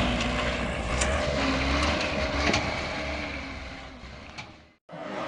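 A vehicle engine running under steady outdoor noise. It fades away and cuts off abruptly near the end.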